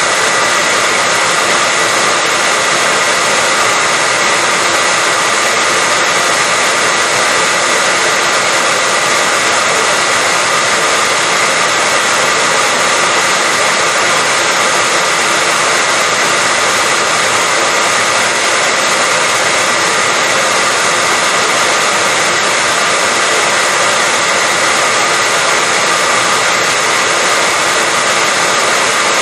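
Electric hair dryer running steadily: a constant loud rush of air with a fixed motor whine, unchanging throughout, played as sleep noise for babies.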